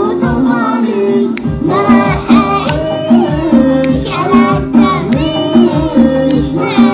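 Arabic song: a singer's melismatic vocal line over a steady rhythmic beat and instrumental accompaniment.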